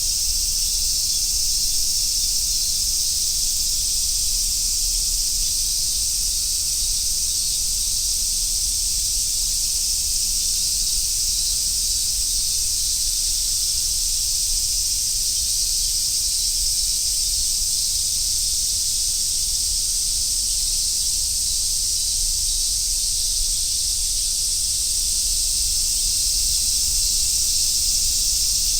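Dense chorus of summer cicadas, such as large brown cicadas (aburazemi), buzzing in one unbroken high drone with no pauses, over a faint low rumble.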